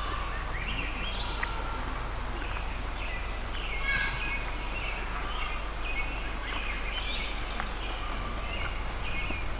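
Birds calling outdoors: many short, repeated chirping calls over a steady low background hum.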